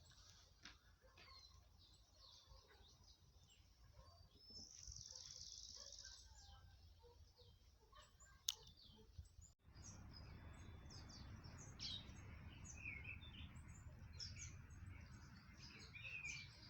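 Faint outdoor ambience with small birds chirping now and then, a brief buzzy trill a few seconds in and one sharp click past halfway.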